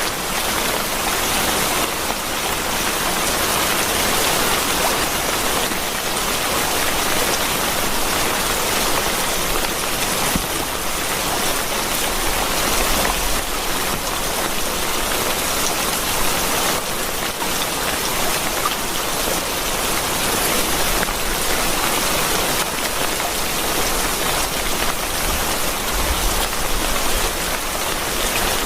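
Steady rain falling, an even, continuous hiss of many drops.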